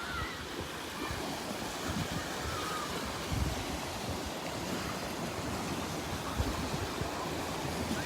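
Steady wash of small waves on the water, with wind gusting against the microphone in low, uneven rumbles.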